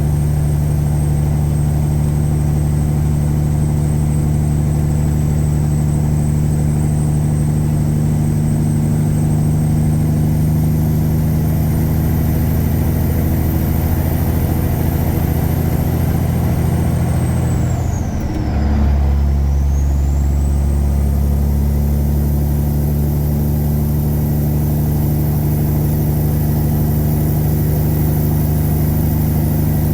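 Tuned Caterpillar 3406E six-cylinder diesel in a Freightliner Classic truck running steadily under way, with a high turbo whistle over the engine note. About eighteen seconds in, the engine and the whistle drop away briefly and then come back, as in a gear change.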